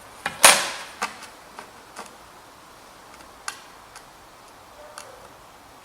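A scriber scratching a short line into sheet metal along a T-square, then a scattering of light clicks and taps as the tools are handled.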